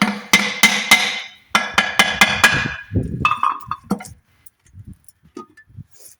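Repeated hammer blows on a ringing metal engine part, about three to four strikes a second in two runs, followed by a few lighter metallic clinks.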